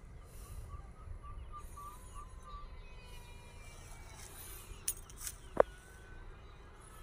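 Outdoor ambience: a bird repeating short, evenly spaced chirps through the first couple of seconds over a low rumble, then a few sharp clicks about five seconds in, the last one the loudest.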